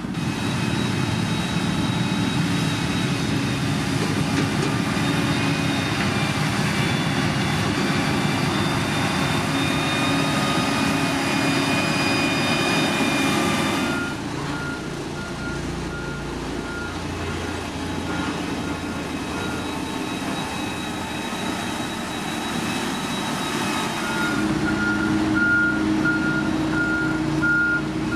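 Diesel engine of heavy earthmoving machinery running loud and steady. About halfway through it drops off suddenly, and a reversing alarm starts beeping at an even pace over a quieter engine. The beeping pauses for a few seconds and comes back louder, with the engine, near the end.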